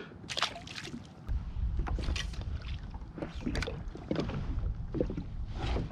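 Water splashing and knocking around a Hobie pedal kayak, in short irregular bursts over a low rumble that sets in about a second in.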